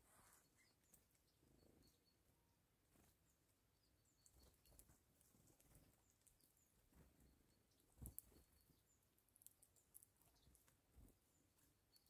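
Near silence, with faint, brief high-pitched bird calls repeated in little groups of two or three, and scattered soft clicks. One louder knock comes about eight seconds in.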